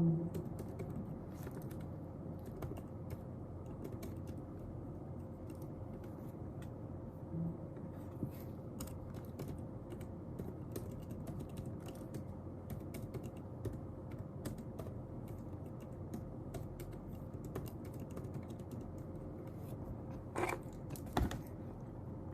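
Light, irregular typing on a computer keyboard over a steady room hum, with two louder knocks a little before the end.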